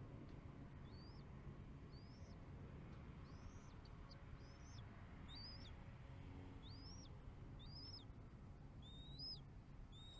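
Faint series of short, high bird chirps, each rising quickly and then dropping, about a dozen in all and coming a little faster toward the end, over a steady low rumble.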